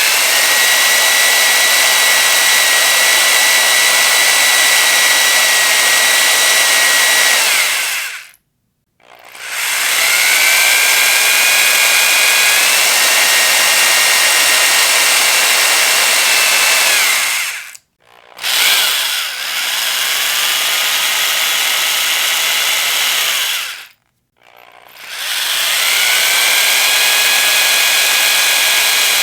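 Electric power drill run in four long bursts, each spinning up with a rising whine, holding a steady high whine for several seconds, then stopping, with short gaps at about 8, 18 and 24 seconds in.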